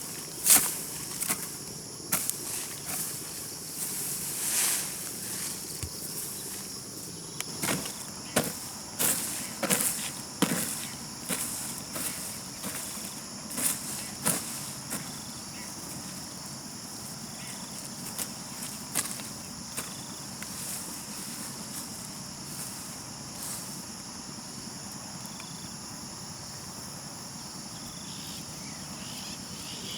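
A steady, high-pitched insect chorus, with irregular knocks and scrapes in the first half that thin out after the middle.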